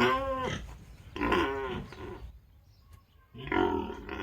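A pig squealing: three drawn-out, pitched calls, the last beginning a little over three seconds in.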